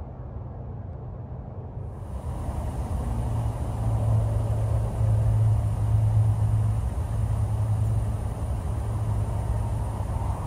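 Mercedes-Benz SL550's V8 idling, a steady low rumble that grows louder about four seconds in and then holds.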